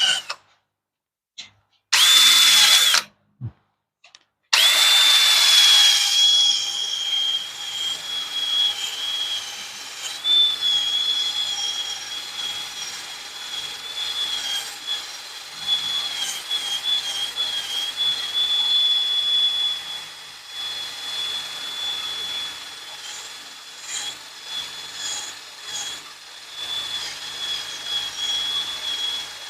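Wire wheel on a power tool spinning and scrubbing rust off the steering knuckle's hub bore. It starts and stops twice in the first few seconds, then runs on steadily with a high whine, its scraping rising and falling as the brush is worked against the metal.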